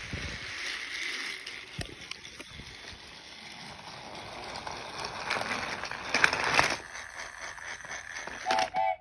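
Small battery motor of a TrackMaster Percy toy engine running along plastic track: a steady whir with rattling and clicks, louder in the middle. Two short pitched toy sounds near the end.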